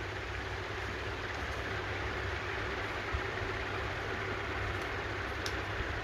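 Honda HRX217 push mower's GCV190 engine running steadily after its carburetor cleaning, with a few faint clicks.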